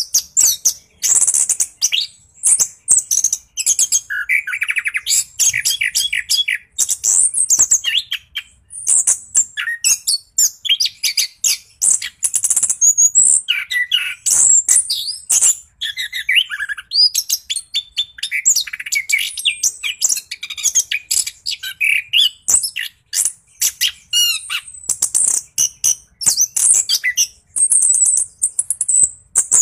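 Orange-headed thrush (anis kembang) singing non-stop: a rapid, varied run of high whistles, trills and chattering phrases, one after another without a pause.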